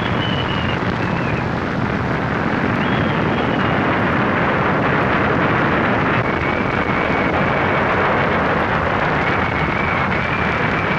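Gale-force wind blowing steadily, with a thin high whistle that wavers in the first few seconds and holds steady from about halfway through.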